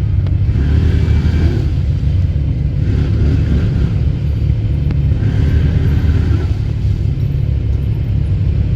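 ATV engines running with a heavy, steady low rumble.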